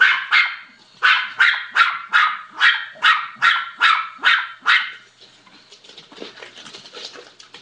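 A dog barking over and over, two to three barks a second, about a dozen in all, stopping about five seconds in. Faint shuffling and clicking follow.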